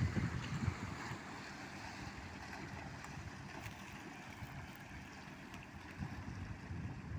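Waves from a passing cruise ship's wake washing along the riverbank, under wind buffeting the microphone. The rumbling gusts ease off about a second in.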